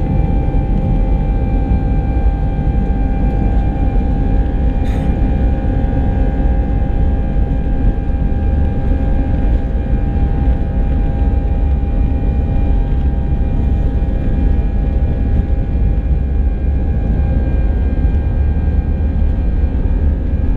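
Steady drone of an Airbus A319's jet engines and airflow heard from inside the passenger cabin: a constant low rumble with several steady tones riding on it. A faint click sounds about five seconds in.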